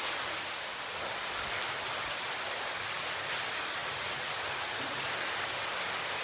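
Water seeping through a limestone cave's ceiling and falling in curtains and drips, a steady rain-like patter.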